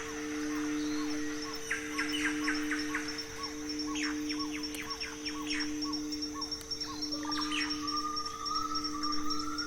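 A singing bowl ringing with a steady, slowly pulsing hum, while birds call over it in quick runs of short falling notes.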